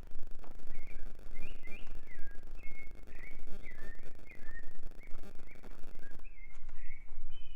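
Small songbirds chirping and whistling in quick, repeated short notes, over a steady low rumble, with soft regular steps on a path about twice a second.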